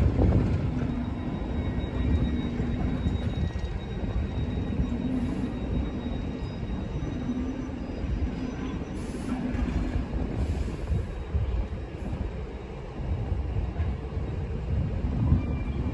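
Passenger train rolling past on the tracks, a steady low rumble of wheels on rail.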